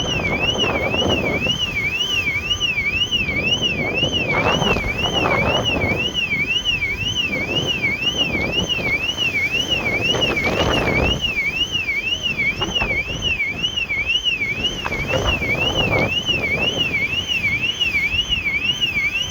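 An electronic alarm siren wailing, its tone sweeping up and down about twice a second without pause. Wind buffets the microphone in gusts underneath.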